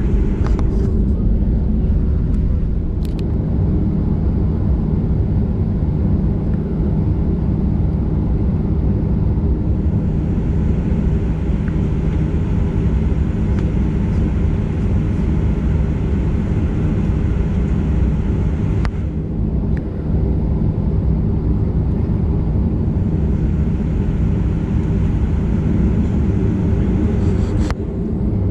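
Steady engine hum and rumble of a Boeing 737-900ER's CFM56-7B engines, heard inside the passenger cabin.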